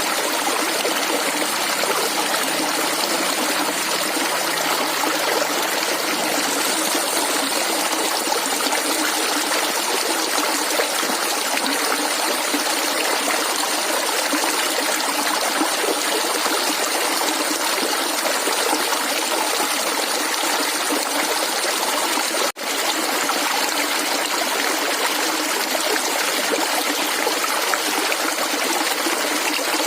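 Shallow stream of water flowing and trickling, a steady, even gurgle, with a momentary dropout about three-quarters of the way through.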